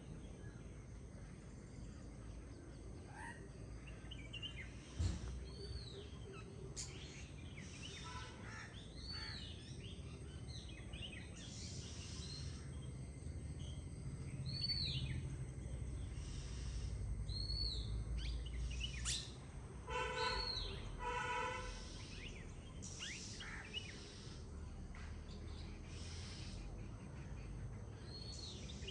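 Several songbirds singing and calling: many short arching chirps, and a harsher buzzy call repeated a few times about two-thirds of the way through. Under them runs a steady low rush of flowing river water, with one sharp thump about five seconds in.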